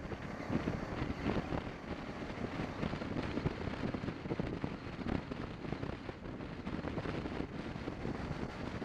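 Wind buffeting the microphone of a moving BMW 650 GS motorcycle, with engine and road noise underneath as it is ridden at speed.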